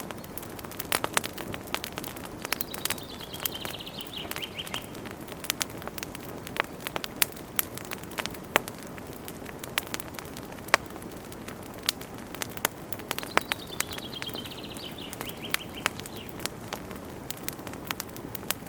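Wood fire crackling in a fireplace: a steady hiss of flames with frequent sharp pops and snaps. Twice a high, falling whistle sounds for about two seconds.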